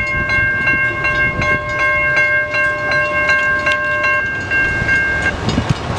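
Siemens low-pitch electronic railroad crossing bells ringing with rapid, even strikes, about three a second. One bell falls silent a little past four seconds in and the other about five seconds in, as the crossing signals shut off after the train has cleared.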